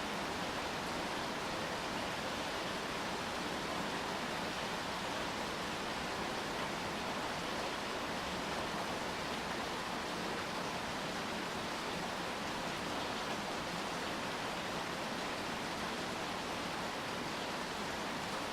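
Steady rain falling, an even hiss that never changes, with no single drops or other events standing out.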